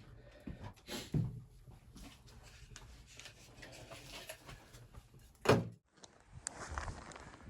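Scattered knocks and thumps of something being handled, with one sharp, louder knock about five and a half seconds in.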